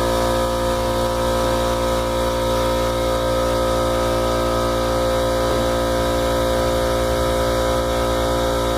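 Air compressor motor running steadily with a constant hum, pumping air to fill the airbag system.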